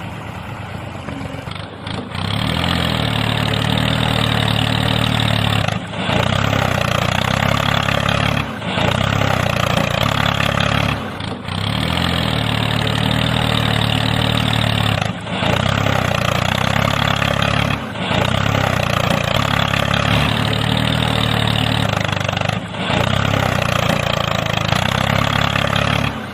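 Small motor running steadily on a DIY mini tractor model, with brief drops in level every few seconds.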